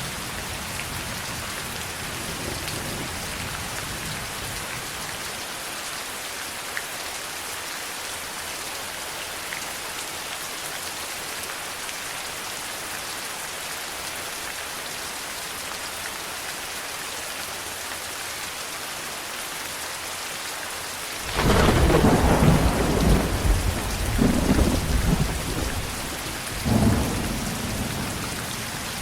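Steady heavy rain hissing, then a loud clap of thunder about three quarters of the way through that rumbles on in several surges for a few seconds.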